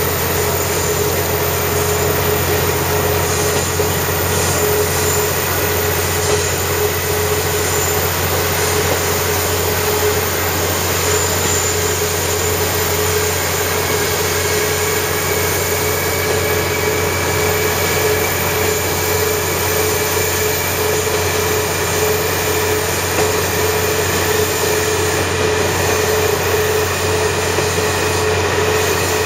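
Diesel railcar heard from inside while running on the loop line: a steady engine drone and wheel-on-rail rumble, with a faint whine that rises slowly in pitch.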